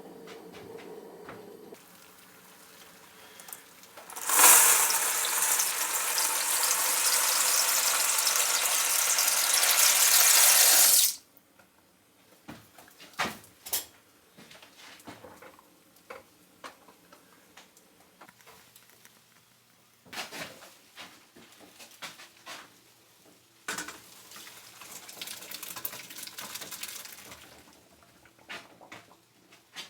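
Water pouring steadily for about seven seconds, then cutting off sharply. Scattered clinks and knocks of cookware and utensils follow, with a shorter, quieter rush of noise near the end.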